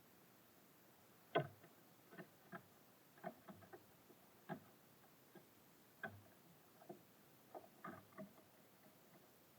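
Small birds pecking and hopping on a bird feeder: faint, irregular taps and knocks, roughly one or two a second, with one sharper knock about a second and a half in.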